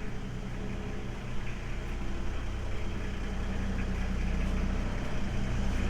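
A vehicle engine running at idle, with a steady low note that grows gradually louder.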